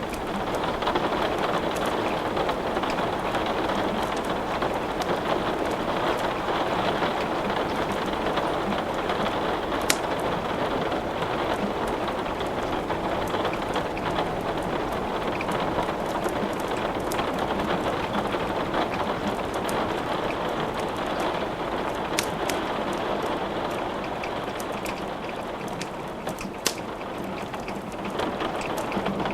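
Steady rain falling, with a wood fire crackling in a few sharp snaps.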